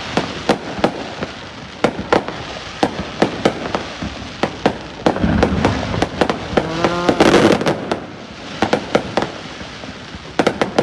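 Fireworks going off in a dense, irregular string of sharp cracks and bangs over a constant background of more bursts, with a heavier, deeper boom about five seconds in.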